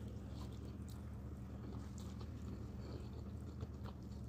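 Close-miked mouth sounds of a person chewing a mouthful of rice and stew, with small wet clicks and smacks scattered through, over a steady low hum.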